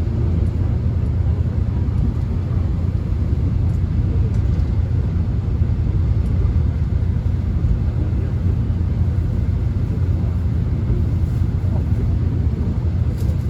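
Steady low rumble inside a Korean subway car as the train runs along the track.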